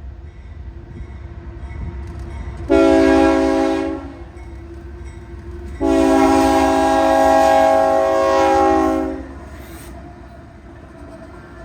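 Train horn sounding several notes at once, first a short blast and then a long one, over the steady low rumble of the passing train.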